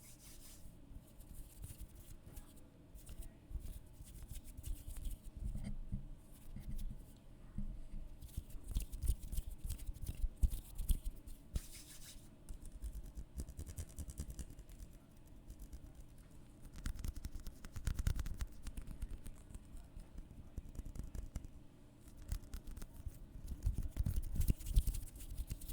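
ASMR trigger sounds made close to a microphone: irregular scratching and brushing crackles with soft handling thumps, in uneven spells.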